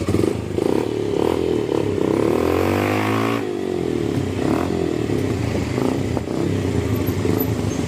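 Motorcycle engines running. One rises in pitch from about two seconds in and drops back sharply at about three and a half seconds.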